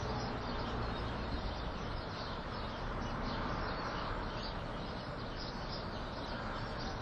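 Small birds chirping and twittering in many short faint calls over a steady background noise.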